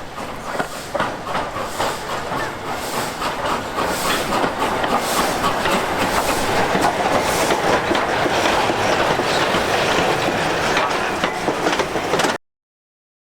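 A train rolling past close by, its wheels clattering over the rail joints in a busy run of clicks. It builds over the first few seconds, holds steady and then cuts off abruptly near the end.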